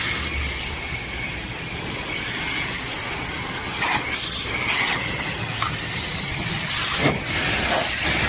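Car-wash pressure washer spraying: a steady hiss of high-pressure water with a thin whine from the pump, changing as the spray hits different surfaces a few times.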